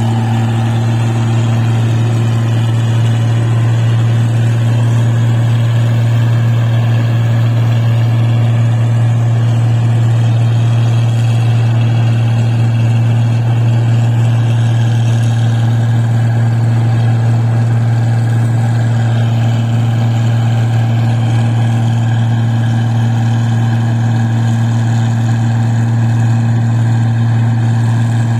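Paddy machine's engine running steadily: a loud, constant low drone with no change in speed.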